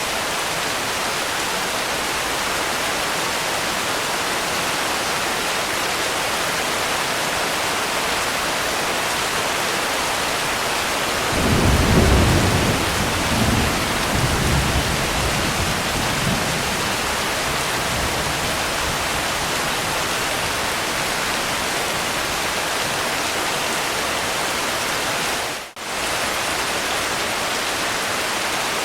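Steady heavy rain hissing. About eleven seconds in, a roll of thunder rumbles low, swells, and dies away over the next five seconds in smaller rumbles. Near the end the rain sound dips out for a split second, as at a loop splice.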